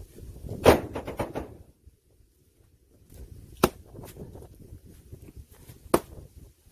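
Axe chopping firewood logs: three sharp strikes a little over two seconds apart. The first strike is the loudest and is followed by a short clatter.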